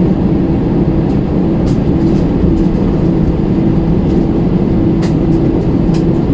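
Steady cabin noise of an Airbus A320 on the ground before takeoff: an even low rumble with a steady hum from the engines, and a few faint clicks.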